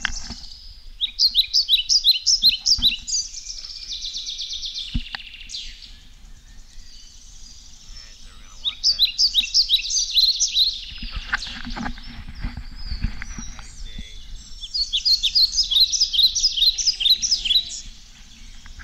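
A songbird singing: three runs of quick, high chirping notes, each lasting two to three seconds, with pauses between them.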